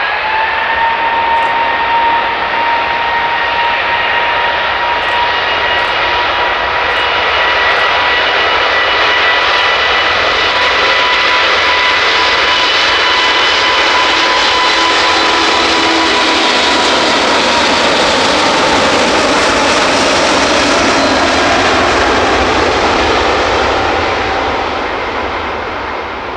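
Airbus A380-842's four Rolls-Royce Trent 900 turbofans running at high power as the aircraft passes. A whining tone rises in pitch at the start, then holds steady over a loud jet rush. The rush swells to its loudest past the middle and fades near the end.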